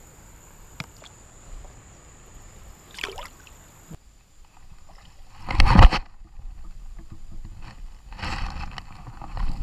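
Mostly quiet, with a faint steady high whine and a few small knocks. Then a loud, short splash of creek water about five and a half seconds in, and water sloshing again near the end.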